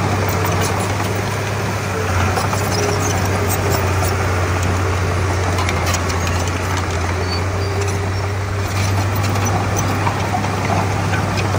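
Komatsu D31P crawler bulldozer's diesel engine running steadily with a deep constant hum, with light metallic clicks over it.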